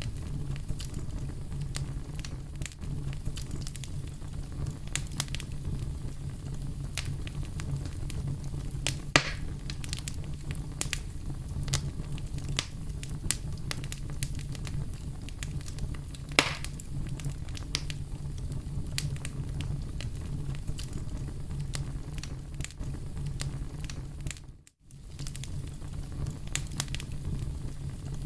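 Fire in a fireplace crackling and popping over a steady low rumble of the flames, with a couple of louder pops. The sound drops out for a moment about three-quarters of the way through.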